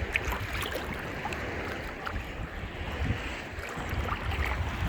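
Wind buffeting the microphone in an uneven low rumble, over the wash of surf with scattered small splashes.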